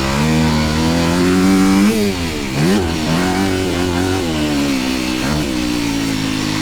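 Dirt bike engine running hard under throttle, its pitch climbing for about two seconds, then dropping sharply with a short blip about two and a half seconds in, before holding steady with a few brief throttle changes.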